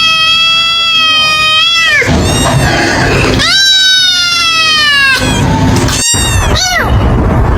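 Kitten meowing loudly: two long, drawn-out meows that fall in pitch at the end, then a quick run of short meows near the end.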